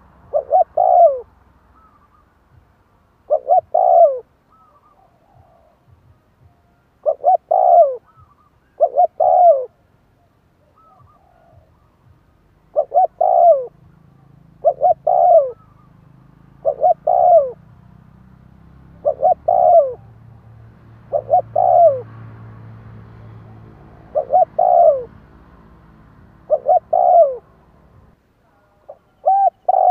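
Spotted dove cooing: a dozen or so short, repeated coo phrases, each about a second long, with brief gaps between them. This is the kind of call played as a lure to bring in wild doves.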